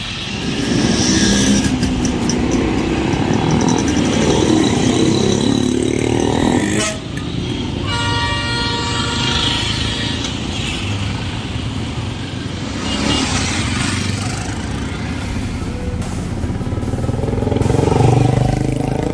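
Several motorcycle engines running together, with a horn sounding for a couple of seconds about eight seconds in.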